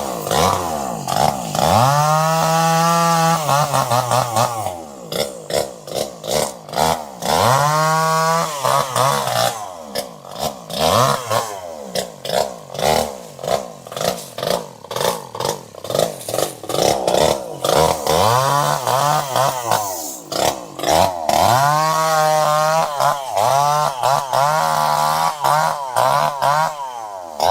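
Chainsaw engine revving over and over, its pitch climbing and falling with each blip of the throttle. There are longer high revs about two seconds in, around eight seconds, and from about twenty-one seconds, with quick short blips in between.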